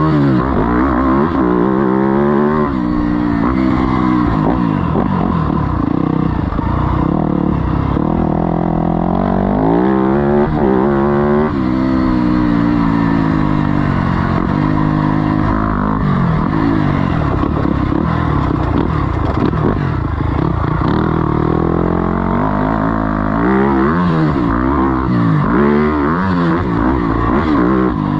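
Four-stroke single-cylinder motocross engine revving hard and easing off again and again as it is ridden round a dirt track, the pitch climbing through the gears, dropping, then climbing again.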